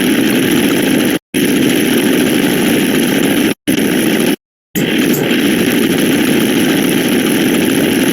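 Looped sound effect: a loud, steady, rough rumbling noise, broken off by brief total silences about a second in, at three and a half seconds, and a slightly longer one near four and a half seconds.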